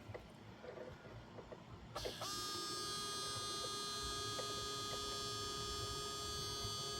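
A small battery-powered live well pump motor switches on about two seconds in and runs with a steady electric whine.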